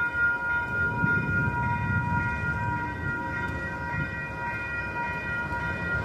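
Freight train of autorack cars rolling past at close range: a continuous rumble and clatter of the cars, with a steady high-pitched whine of several tones held over it.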